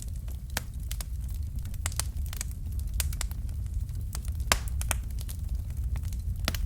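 Fire crackling in a fireplace: irregular sharp pops over a steady low rumble, with one louder pop about four and a half seconds in.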